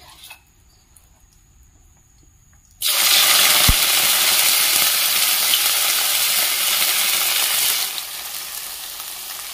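Sesame-and-cornflour-coated bitter gourd slices hitting smoking-hot oil about three seconds in, starting a sudden loud sizzle of deep-frying. The hiss eases to a lower, steady sizzle near the end as the slices keep frying.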